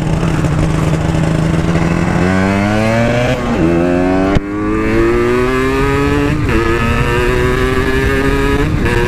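Two-stroke motorcycle engine pulling away under throttle: it holds steady revs for about two seconds, then the revs climb and drop back at a gear change twice, about three and a half and six and a half seconds in, before running on steadily. A single sharp click comes about four seconds in.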